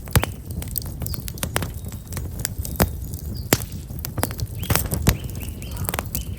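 Black locust firewood burning in an open campfire, crackling with irregular sharp snaps and pops over a steady low rumble of the flames. Small birds chirp a few times, about five seconds in.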